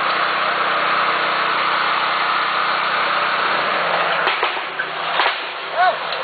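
Small engine running steadily under a strong hiss, with a few sharp metallic knocks from about four seconds in as the hiss eases.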